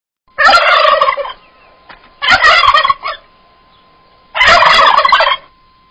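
A bird calling three times, each call a rapid rattling burst about a second long.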